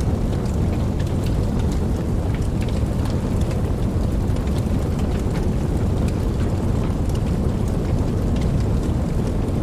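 Steady rain, with many small drops ticking sharply and a constant deep rumble underneath.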